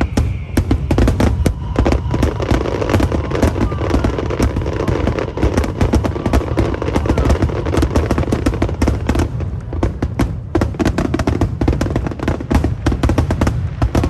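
Aerial fireworks going off in a rapid, continuous barrage: many sharp bangs and crackles in quick succession, with no pause.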